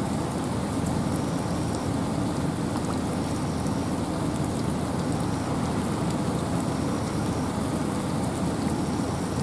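Steady rain with wind in a forest: an even, dense hiss that is heaviest at the low end, with light drop ticks scattered through it.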